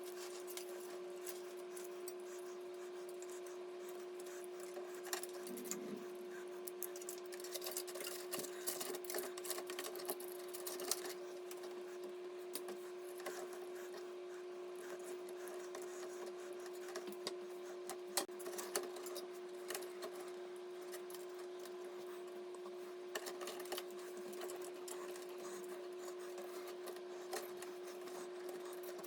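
Scattered light clicks, taps and small rattles of PC parts and fittings being handled, busiest a few seconds in, over a steady electrical hum.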